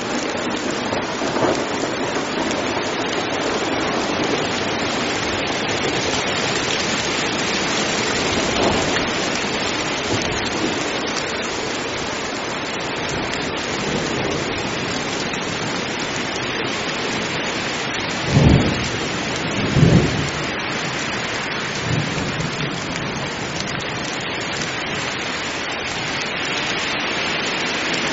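Heavy rain falling steadily, with thunder: two short, loud claps about two-thirds of the way through and a fainter one soon after.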